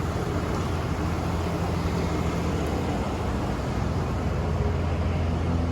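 A vehicle's engine running steadily, a low even hum with no change in pitch.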